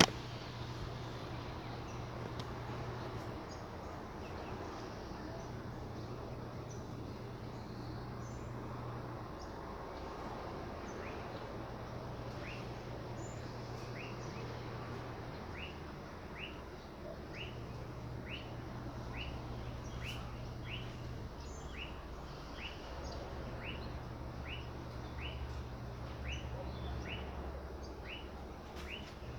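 A steady hiss with a low hum that switches on and off every few seconds. From about a third of the way in, a short high chirp repeats about twice a second, a small animal calling over and over.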